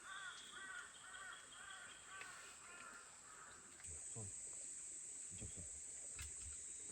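A crow cawing repeatedly, about two caws a second, for the first three seconds. Under it runs a steady high insect drone that gets louder about four seconds in.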